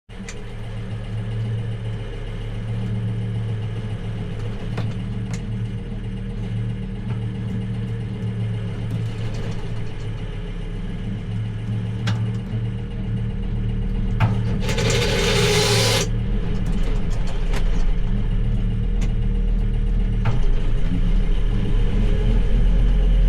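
Tractor engine running steadily under way, with a brief loud hiss about fourteen seconds in that lasts a second and a half, and a few scattered clicks.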